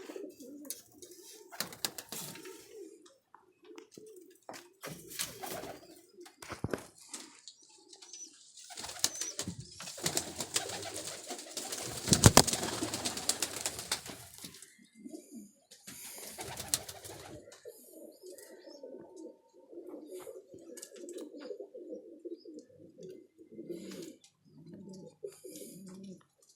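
Domestic pigeons cooing over and over in a loft, with scattered clicks and taps. A loud rustling burst swells up about a third of the way in and dies away some five seconds later.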